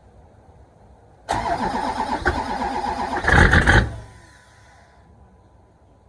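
LB7 Duramax 6.6-litre V8 diesel cranking over on the starter in a cold start at −18 °C without a block heater. It turns over for about two and a half seconds, gets louder near the end, then stops and spins down.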